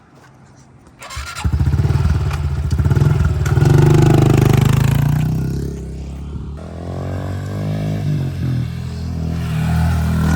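Honda CRF110 pit bike's small single-cylinder four-stroke engine coming in suddenly about a second in, revving up, easing back to lower revs, and rising again near the end.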